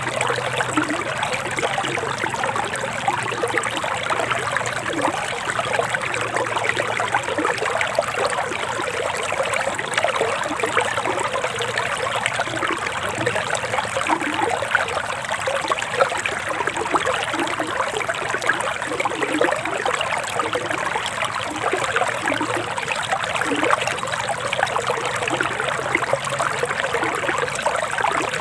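Forest river water flowing steadily, a continuous trickling rush with no pauses.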